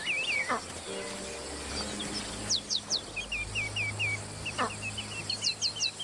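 Wild birds calling: runs of quick chirps and short whistles, repeated over and over. A longer call that slides down in pitch comes twice, near the start and again a little over four seconds in.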